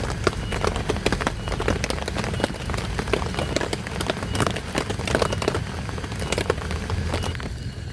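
Heavy rain falling, with many sharp drops pattering on a surface over a steady wash of noise. The drop hits thin out near the end.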